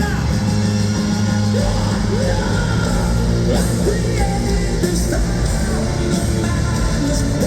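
Live hard rock band playing loud, with heavy guitars, bass and drums, and yelled voices over the top.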